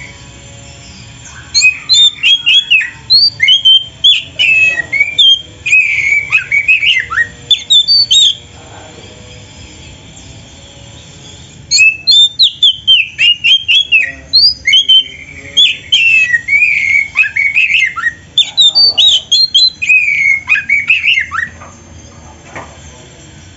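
Oriental magpie-robin (kacer) singing a fast, varied song of whistles, trills and chattering notes, full of phrases mimicked from other birds. It sings in two long bouts with a pause of a few seconds between them.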